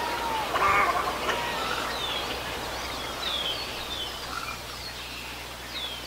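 Birds calling: many short descending chirps repeating, with a louder harsh call about half a second in.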